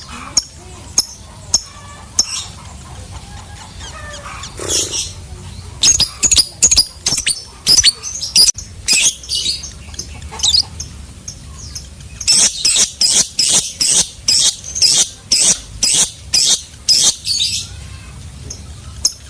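Lovebird calling in a long series of sharp, high chirps, about three a second, in two runs, the second longer, after a few scattered single chirps: the lovebird's 'ngekek' chattering call.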